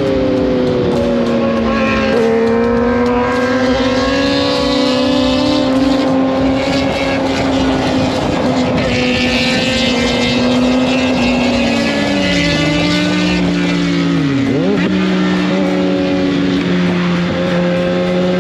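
Motorcycle engine held at steady high revs while riding. Its note drops about two-thirds of the way in, then dips sharply and comes back up shortly after.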